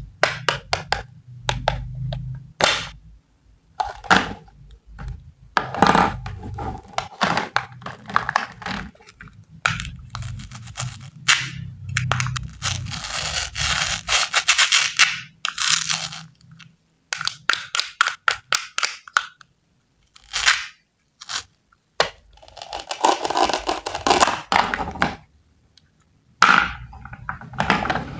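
Close-up handling sounds of small kitchen objects on a tabletop: a long run of sharp taps, clicks and knocks, with several stretches of scratchy scraping and rustling between them.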